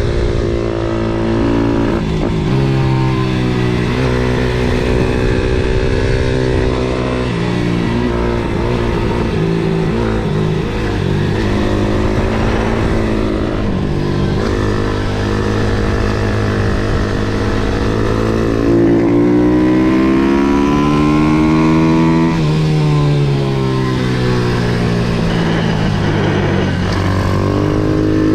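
MRF 140 SM pit bike's single-cylinder four-stroke engine under hard riding: revs climb through the gears and drop at each shift. In the later part the revs make one long climb, then fall away with short blips as the rider downshifts for a corner.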